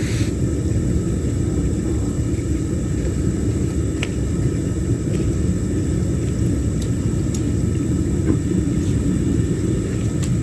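Home foundry furnace burner running with a steady low rumble, with a few faint clinks of metal.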